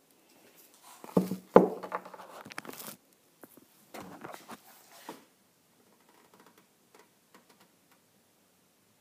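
Hands handling parts and tools: two sharp knocks about a second and a half in, among rustling and scraping, then another stretch of rustling around four to five seconds in and a few faint ticks.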